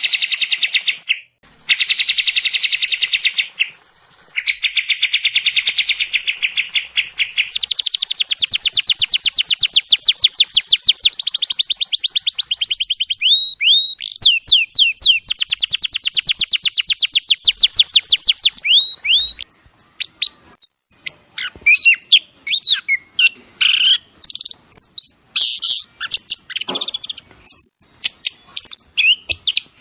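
Songbird song: fast, high trills held for several seconds at a time, a long, dense trill with sweeping notes in the middle, then a run of varied short chirps and whistles.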